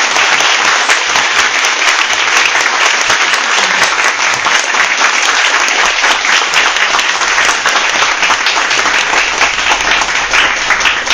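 A group of people applauding, many hands clapping steadily and thinning out near the end.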